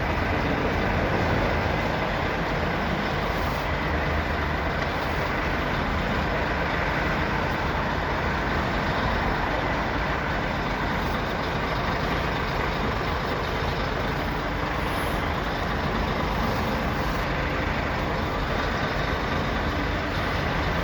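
Steady running noise of a Scania R500 truck's engine at idle, even and unchanging throughout.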